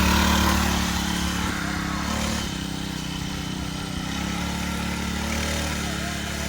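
Mini bike's small engine running steadily as it is ridden, louder for the first couple of seconds and then somewhat quieter.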